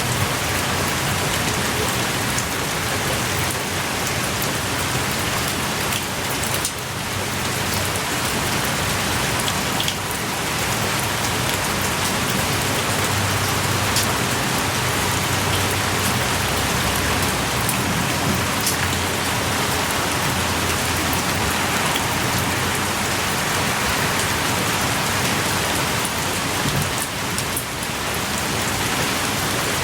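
Heavy rain pouring steadily, with scattered individual drops striking close by.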